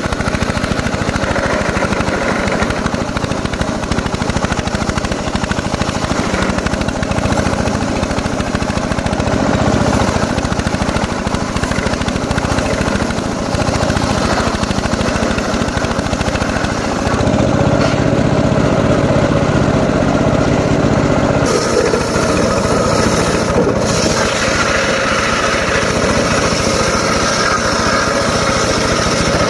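Home-built circular saw rig running steadily while cutting short teak logs. It grows louder and lower for a few seconds past the middle, then changes tone again.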